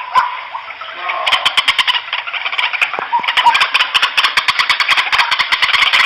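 White-breasted waterhens calling noisily, a dense stream of rapid, harsh pulsed notes that thickens about a second in.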